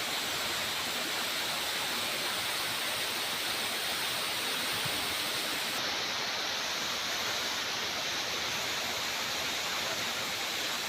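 Floodwater from heavy rain cascading down rock as a waterfall: a steady, loud rushing.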